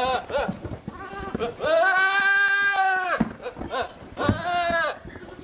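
Goat or sheep bleating: a wavering bleat at the start, a long held bleat of over a second about two seconds in, and a shorter bleat near the end.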